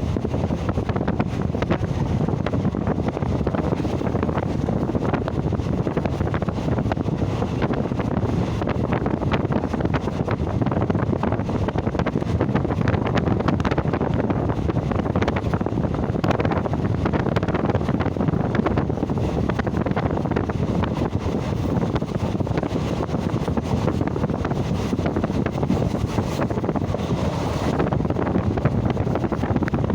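Wind buffeting the microphone over a steady low rumble from a moving train, unbroken throughout.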